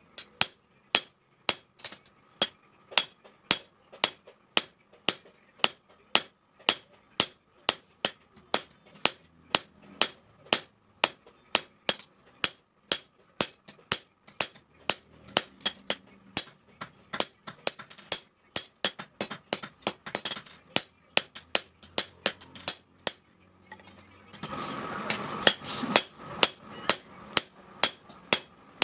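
Blacksmith's hammer striking steel on an anvil: sharp, ringing blows at about two a second that come faster in the middle. About 24 seconds in, a loud rushing noise lasts about two seconds.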